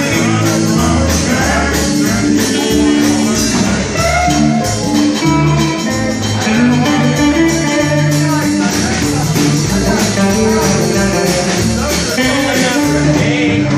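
Rock band music with guitar, a steady bass line and percussion.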